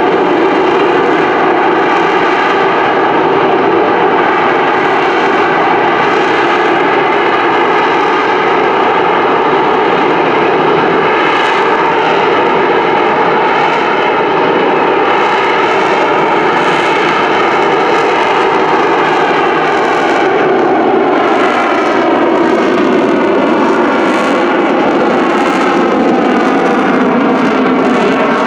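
AV-8B Harrier II's Rolls-Royce Pegasus turbofan, a loud continuous jet roar with a rich mix of tones over heavy rushing noise. Its tones slowly slide and shift in pitch in the last several seconds as the jet moves.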